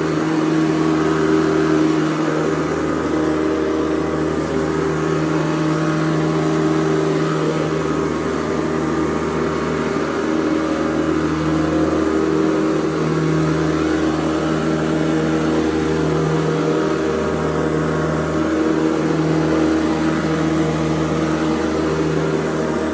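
Hoover Convertible U4101 upright vacuum cleaner running steadily while vacuuming, its motor and fan giving a loud, constant hum with a slight waver as it is pushed about.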